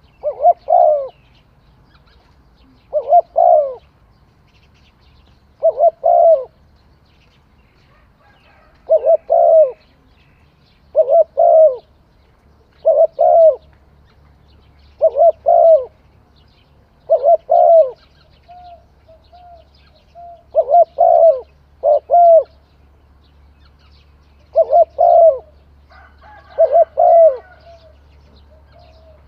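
Spotted dove cooing: short two- or three-note coo phrases repeated about every two seconds, with fainter single coos between them.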